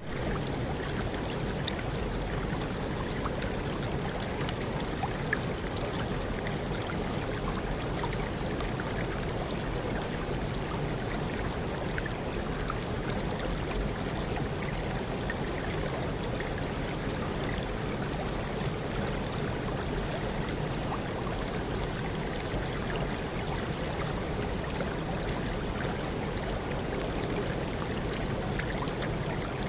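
Small waterfall, water rushing and splashing in a steady wash of noise.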